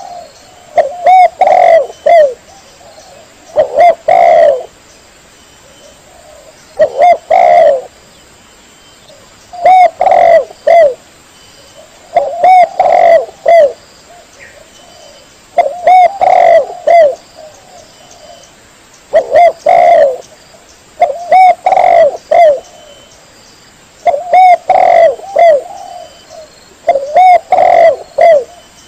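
Spotted dove (tekukur) cooing, a recorded call: a short phrase of a few low coos repeated about every three seconds.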